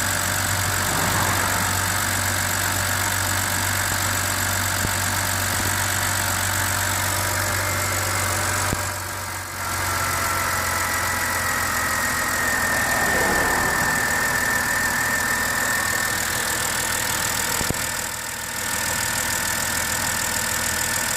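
2007 BMW X5 E70 3.0si's inline-six engine idling steadily, with the hydraulic lifter tapping that the owner puts down to wrong-spec oil, long oil-change intervals and mostly short trips. The sound dips briefly twice.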